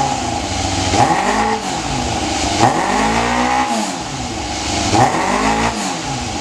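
1999 Yamaha R6's inline-four engine, breathing through a full Yoshimura aftermarket exhaust, blipped three times from idle. The middle rev goes highest and lasts longest, and the engine drops back to idle between revs.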